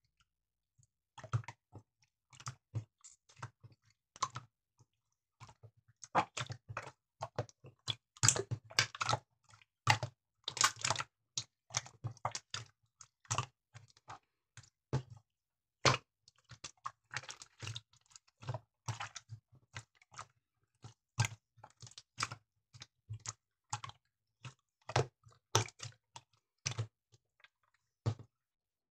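Black slime being pressed and squished by hand, giving irregular runs of small sharp clicks and crackles with short pauses between them.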